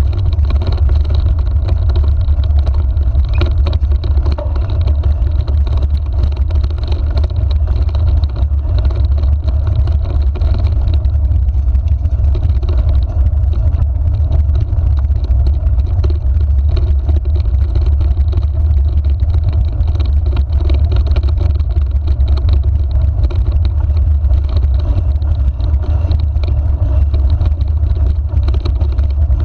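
A steady, loud low rumble that runs without a break or change.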